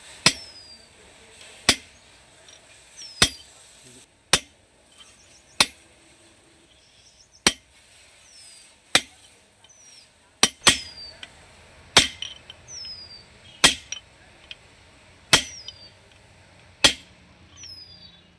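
Hammer blows in a steady series of sharp single strikes, about one every second and a half.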